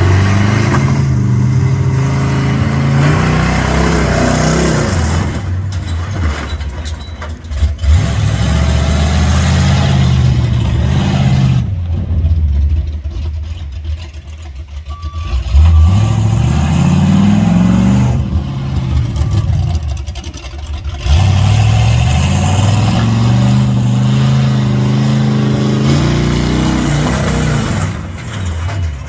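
Monster truck's engine revving hard, its pitch climbing and falling again and again, easing off twice to a lower, quieter run partway through.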